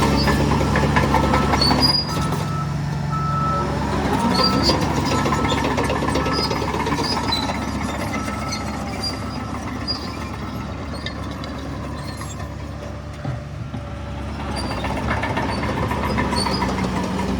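Heavy diesel earthmoving machinery running steadily under load, easing off about two-thirds of the way through and picking up again near the end. A short high beep repeats through the first half.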